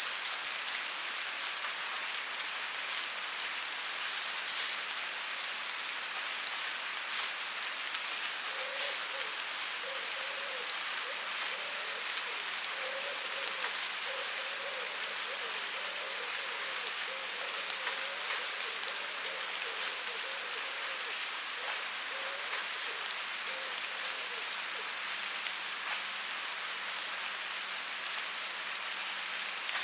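Steady rainfall, a dense even hiss with scattered sharper drop ticks. A faint wavering sound sits low under the rain through the middle stretch.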